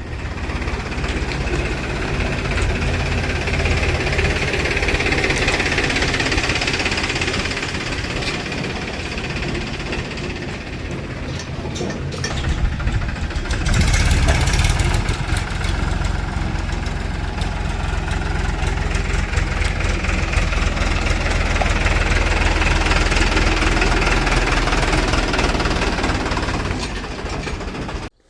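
A heavy diesel machine's engine running steadily with a deep rumble, growing louder about halfway through.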